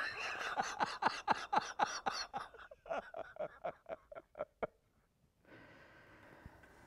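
A man's loud, strained vocal outburst that breaks into a rapid run of short pulses, about five a second, fading out over roughly four and a half seconds. A faint steady hiss follows near the end.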